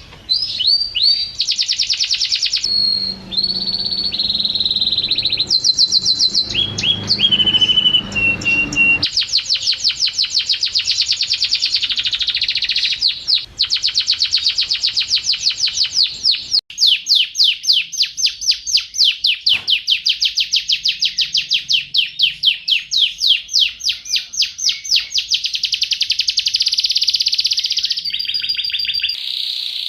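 Domestic canary singing a long, continuous song of rapid trills and rolls, with a few held whistled notes in the first third and abrupt switches from one phrase to the next.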